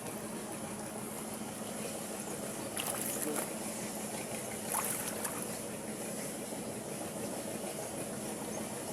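Water sloshing and lapping with two brief splashes, about three and five seconds in, over a steady low hum.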